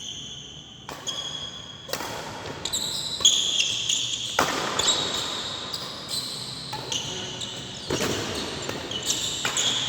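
Badminton rally: repeated sharp racket strikes on the shuttlecock mixed with short high-pitched squeaks of shoes on the court floor.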